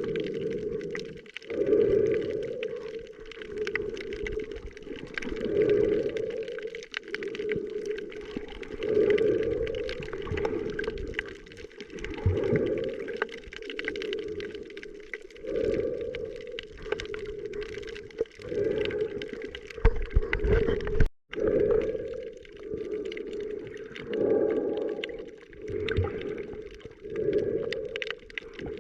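Muffled underwater water sounds, swelling and fading in a rhythm every second or two, as heard by a camera held underwater while snorkeling.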